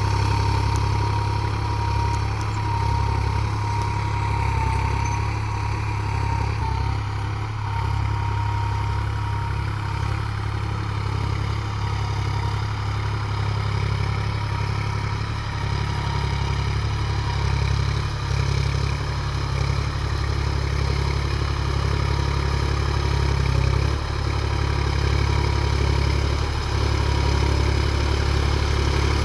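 New Holland 4710 tractor's diesel engine running steadily at an even speed, with a faint steady whine above the engine note.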